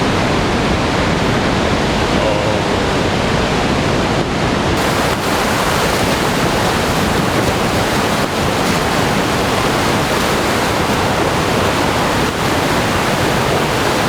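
Heavy thunderstorm rain falling steadily, a loud even hiss with no let-up.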